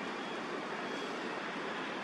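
Steady, even wash of distant city traffic noise.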